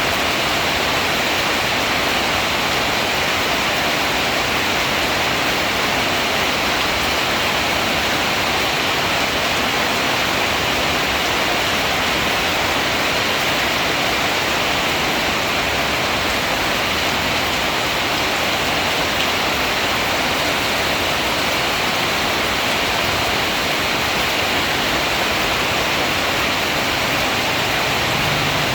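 Heavy rain from a rainstorm falling steadily, an even, unbroken hiss.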